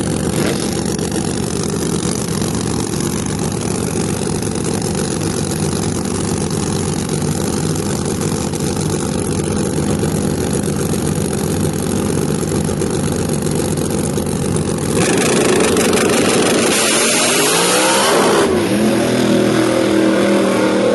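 Loud drag car engines running: a steady idle for about fifteen seconds, then a louder engine with revs rising and falling near the end.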